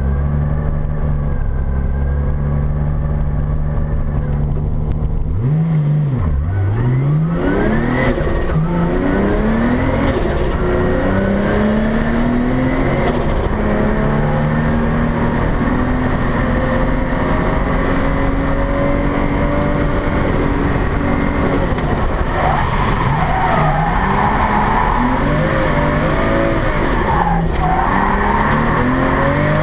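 Nissan Skyline R32 drift car's RB30DET turbocharged straight-six heard from inside the cabin. It idles steadily for the first few seconds, then revs up and runs hard at high revs, the pitch rising and falling with the throttle, under a high whine that rises and falls with it. There is a brief sharp break in the sound near the end.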